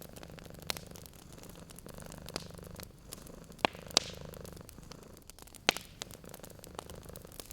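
Domestic cat purring in slow swells, over a wood fire crackling with several sharp pops.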